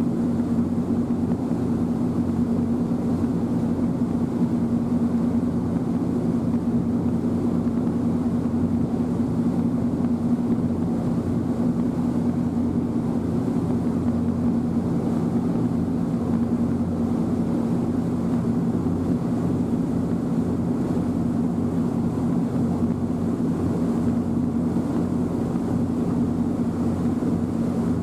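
Passenger ferry's engine droning steadily, heard from aboard: one unchanging low hum with its overtones.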